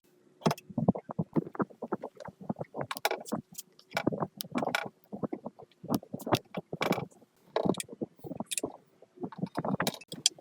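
Irregular knocks and clattering, one after another, over a faint steady hum.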